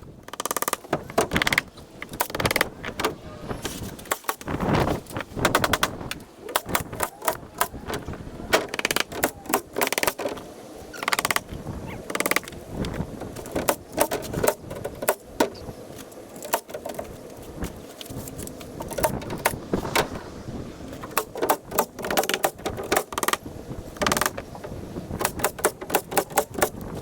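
Irregular sharp knocks and taps from building work, coming in quick runs at times.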